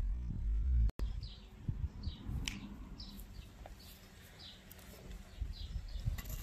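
Electronic music with heavy bass cuts off abruptly about a second in. After it, a bird repeats a short, falling chirp about once a second over quiet outdoor background, with one sharper downward whistle about two and a half seconds in and a few low thumps near the end.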